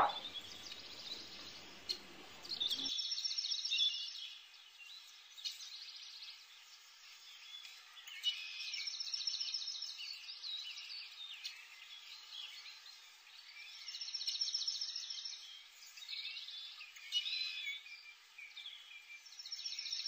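Faint bird chirping and trilling, with a quick trilled phrase coming back about every six seconds.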